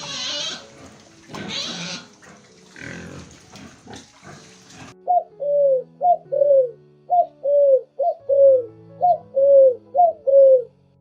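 Pig squealing and grunting in rough bursts, then a bird repeating a two-note cooing call about once a second, a short higher note followed by a longer falling one.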